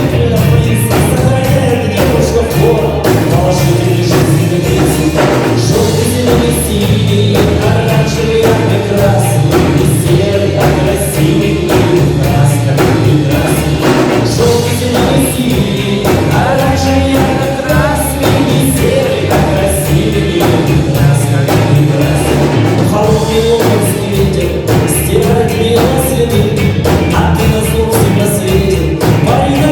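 A live rock band playing a song: steady drums and bass under a sung vocal line.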